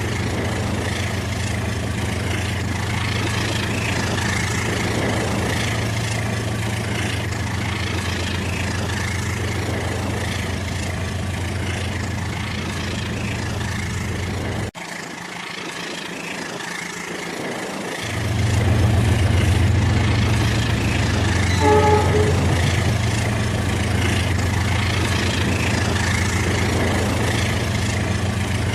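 Battery-powered Rail King toy train running on its plastic track: a steady motor hum and wheel rumble. The hum drops out for about three seconds midway, then comes back louder, with a brief run of short high-pitched notes a little later.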